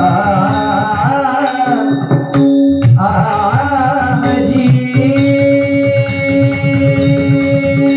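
Devotional kirtan music: a wavering melodic line over a steady held drone, with regular strikes of percussion and small hand cymbals keeping the beat. From about five seconds in, the wavering line gives way to steady sustained chords, in the manner of a harmonium.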